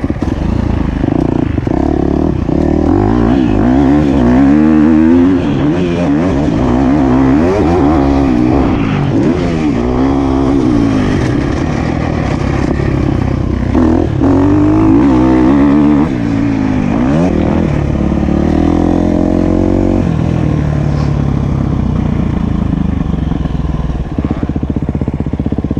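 Motocross bike engine under hard riding, its pitch rising and falling over and over as the throttle is opened and closed through the track's sections.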